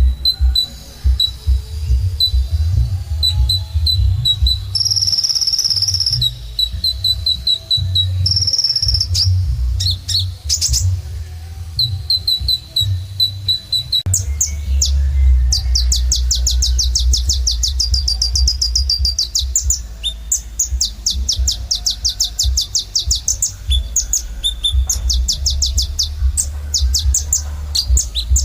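Kolibri ninja sunbird singing: high, thin chirps and short strings of notes, then from about halfway a long, very fast trill. A steady low rumble runs underneath.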